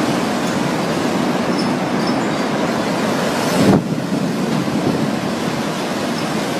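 Tornado roar: a loud, steady, train-like rush of wind, with a brief louder surge a little past halfway.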